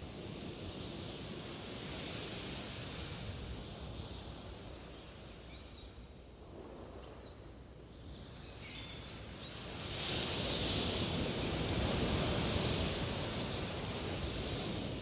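Steady outdoor background noise, a rushing hiss that swells about ten seconds in, with a few faint short chirps in the middle.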